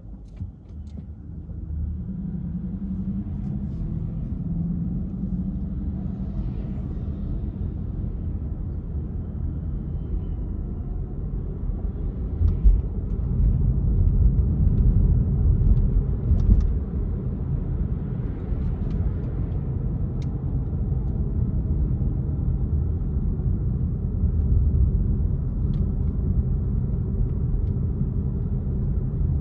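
Car driving on city streets: steady low engine and tyre rumble that grows louder about two seconds in, with a couple of brief knocks midway.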